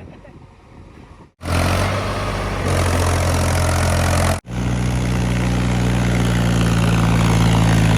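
Diesel engines of heavy farm machinery running at a steady speed, in edited clips cut together. After a quieter opening, a steady low engine note starts abruptly about a second and a half in. About four and a half seconds in, a sharp cut brings a higher-pitched engine running slightly louder.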